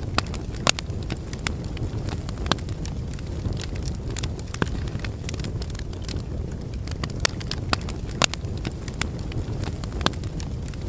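Wood fire in a fireplace, logs burning with a steady low rushing of the flames and frequent irregular sharp crackles and pops.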